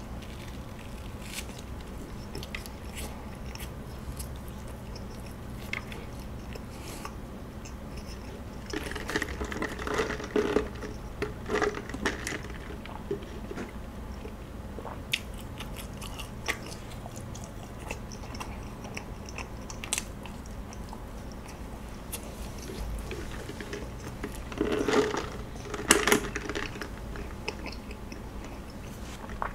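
Close-up chewing and biting of kaya toast, with small crunches of the toasted bread and wet mouth sounds, in two louder spells of eating.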